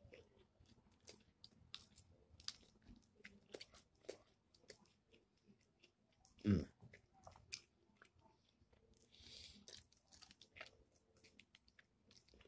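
Faint close-up chewing of fried chicken picked from the bone by hand, a steady run of small clicks, with one louder thump about six and a half seconds in.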